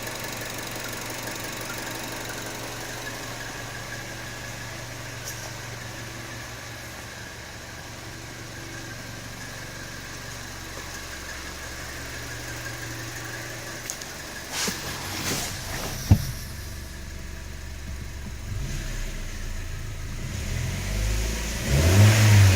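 2014 Chevy Sonic's 1.4L turbocharged four-cylinder engine idling steadily. A few sharp knocks come about 14 to 16 seconds in, and near the end the engine revs up, loudest just before the close.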